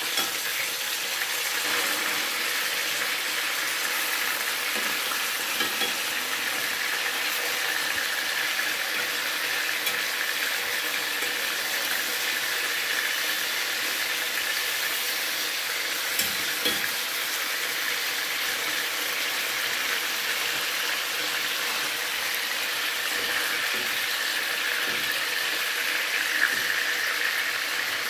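Seasoned chicken pieces sizzling steadily as they brown in oil in a frying pan. A few light clinks come from a metal fork against the pan as the pieces are turned, twice a little past the middle and once near the end.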